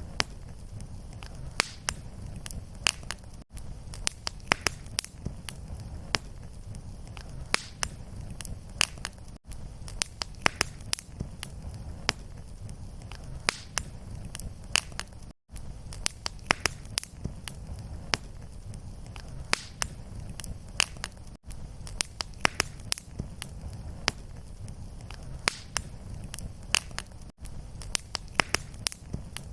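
Wood fire crackling, with frequent sharp pops over a steady low rumble of flame. The sound briefly drops out about every six seconds, where a short recording is looped.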